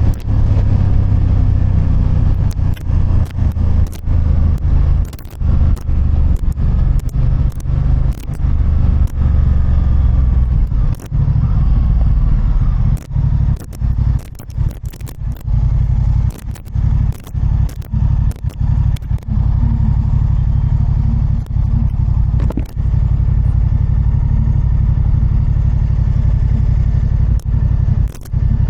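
Motorcycle engine running at fairly steady revs while riding, broken by many short clicks and brief dips in level.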